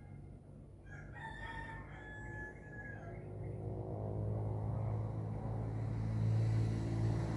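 A rooster crows once, a drawn-out call of about two seconds, about a second in. Then a motor vehicle's engine hum comes in low and grows steadily louder as it approaches, becoming the loudest sound by the end.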